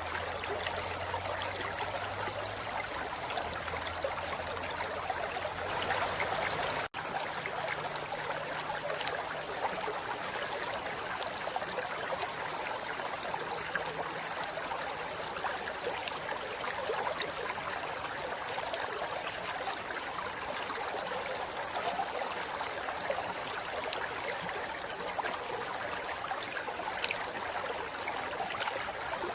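Forest river flowing over rocks: a steady rush of water, with a momentary cut-out about seven seconds in.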